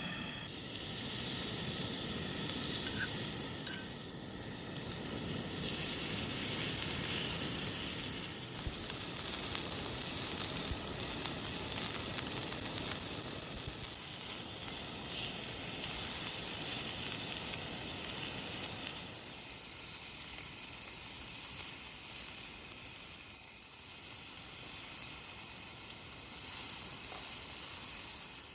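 Food frying in a pan with a steady sizzle.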